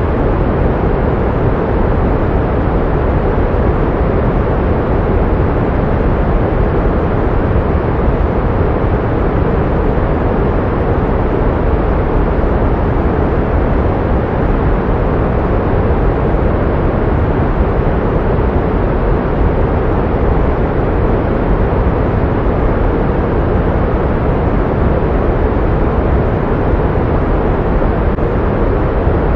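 Pink noise: a steady, unbroken hiss with its weight in the low end, growing dull toward the highs.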